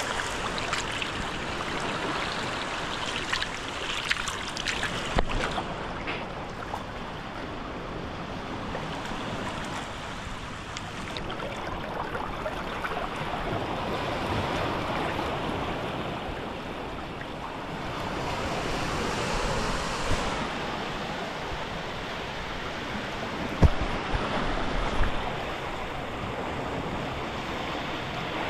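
Steady rush of moving water, with a few brief sharp thumps near the start and again about four-fifths of the way in.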